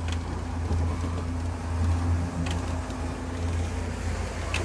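Steady low drone of a sailboat's inboard engine heard below deck in the cabin, with a few light clicks.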